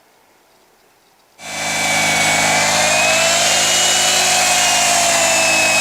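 A chainsaw's two-stroke engine starts suddenly about a second and a half in and then runs loud and steady, its pitch wavering slightly.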